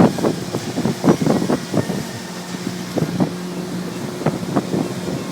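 A motorboat's engine running steadily under way, with a low even hum, while wind buffets the microphone in irregular gusts.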